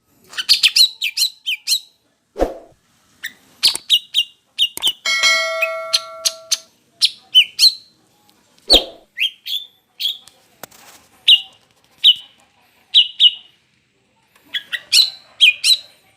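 Female green leafbird (cucak ijo) in breeding condition calling: short, sharp chirps in quick clusters of two to five with gaps between. Two sharp knocks and, about five seconds in, a steady pitched tone lasting about a second and a half.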